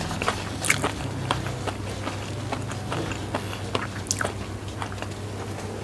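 Close-miked mouth sounds: the last mouthful of fried flat rice noodles being chewed, with scattered wet clicks and smacks, over a steady low hum.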